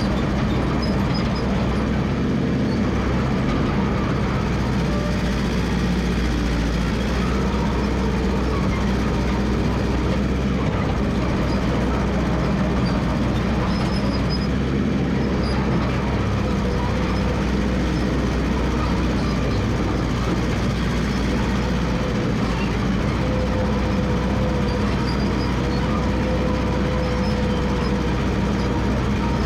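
Massey Ferguson MF 300 crawler dozer running steadily as it works, a continuous heavy engine and machinery noise.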